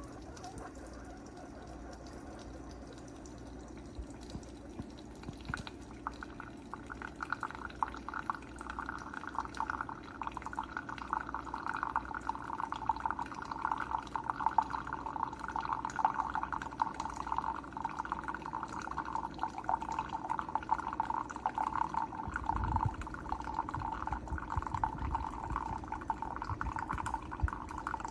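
Keurig K-Supreme Plus single-serve coffee maker brewing: from about six seconds in, a steady stream of coffee pours into the cup over a low hum from the machine.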